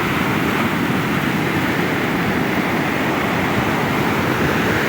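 Steady noise of sea surf, with wind buffeting the microphone.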